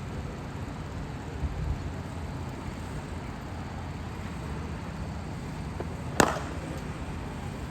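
Steady low outdoor rumble with one sharp crack about six seconds in: a cricket bat striking a ball in the practice nets.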